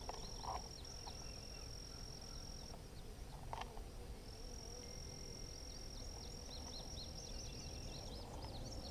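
Faint, steady high-pitched trill of an insect, breaking off twice, with many quick faint chirps of distant birds above it and a couple of soft knocks.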